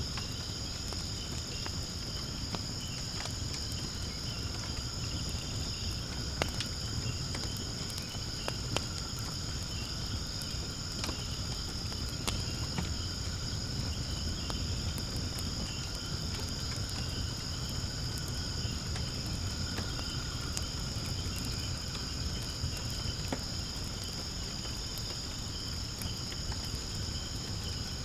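Firewood burning in a fire pit, giving scattered sharp crackles and pops over a low rumble, against a steady high-pitched chorus of insects.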